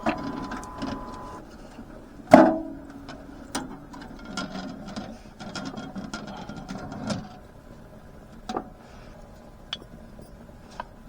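Knocks and clatter of objects being handled, with one loud clank that rings briefly about two and a half seconds in. After about seven seconds only a few sharp clicks remain.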